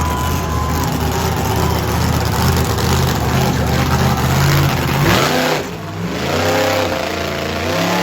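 Monster truck engine running at a steady drone, then revving up sharply about five seconds in, dropping back briefly and revving again.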